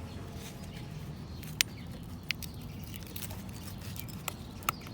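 A few sharp, light metallic clicks and ticks from a feeler gauge being worked into the tight exhaust valve gap of a single-cylinder motorcycle engine's valve train, over a steady low background hum.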